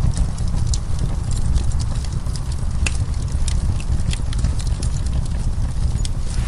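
Wood fire burning in a fireplace: a steady low rumble with irregular sharp crackles and pops of burning wood.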